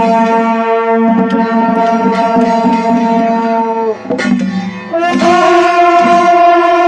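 Loud traditional wind-and-percussion music: a wind instrument holds long, bright notes over steady drum beats. The melody breaks off about four seconds in and comes back on a lower held note a second later.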